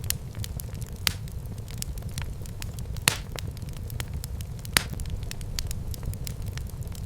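Wood fire burning in a fireplace: a steady low rumble of the flames with frequent crackles and sharper pops, the loudest about three seconds in and again near five seconds.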